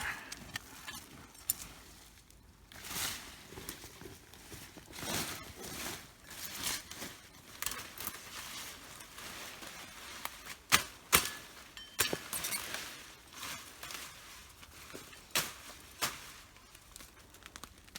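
Digging and scrabbling through damp soil while unearthing sweet potatoes: irregular rustling and scraping, with a few sharp clicks or knocks in the second half.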